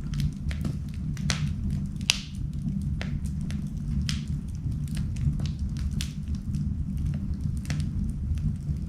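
Wood fire burning in a fireplace: a steady low rumble with scattered crackles and sharp pops, the loudest pop about two seconds in.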